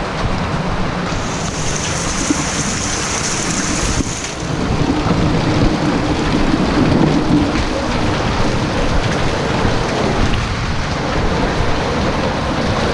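Heavy rain pouring down steadily, with a low rumble underneath. A higher hiss joins in from about one to four seconds in.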